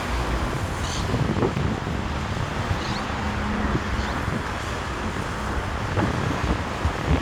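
Steady rumble of a Boeing 737 MAX 8's CFM LEAP-1B turbofan engines, with wind buffeting the microphone.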